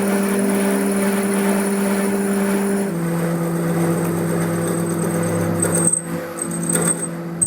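A workshop machine running steadily with a droning hum and a high whine. The pitch drops a little about three seconds in. Near the end the sound dips briefly, with a few clicks.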